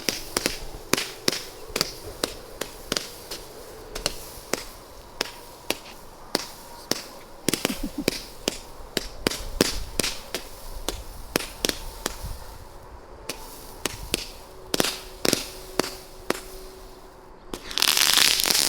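A 96-shot color pearl firework cake firing shot after shot, a quick irregular string of sharp pops at about two to three a second, with a louder, longer hissing burst near the end.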